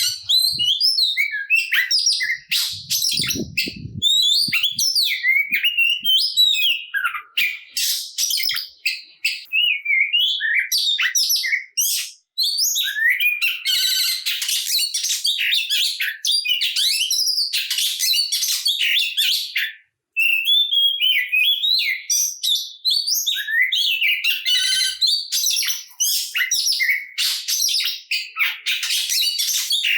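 Oriental magpie-robin (kacer) singing loudly and almost without pause: a rapid, varied stream of whistles, trills and chirps full of learned phrases (isian), breaking off briefly twice.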